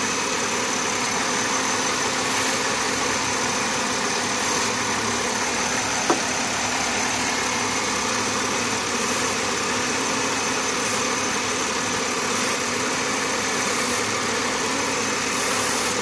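Chevrolet 3.8L V6 idling steadily, with one brief click about six seconds in. The engine is running lean from a vacuum leak, which the owner suspects is a leaking upper intake manifold gasket.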